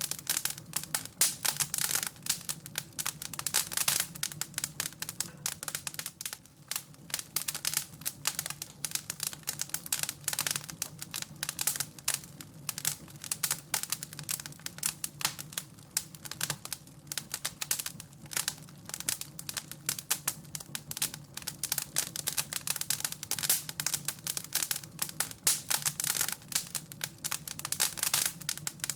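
Wood fire crackling in a fireplace: a dense, irregular run of sharp crackles and pops over a low steady hum.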